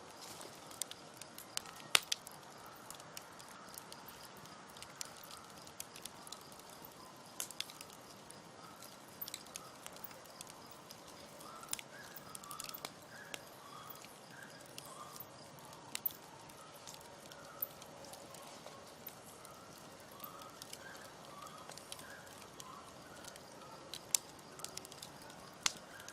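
Campfire burning, with irregular sharp crackles and pops over a soft hiss; the loudest pop comes about two seconds in. Faint short chirps repeat in the background from about halfway on.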